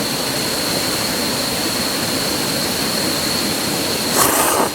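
Steady rushing outdoor noise like running water, with a thin, constant high-pitched tone running through it. Just before the end comes a short, louder burst of hiss.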